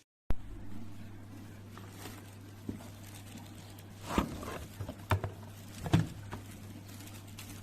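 A few sharp clicks and knocks of objects being handled, the loudest about four, five and six seconds in, over a steady low hum.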